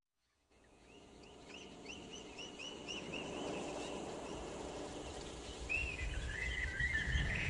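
Wildlife ambience fading in: a bird gives a quick series of short chirps, about four a second, then a longer warbling call near the end, over a steady hiss and a low rumble that swells in the last couple of seconds.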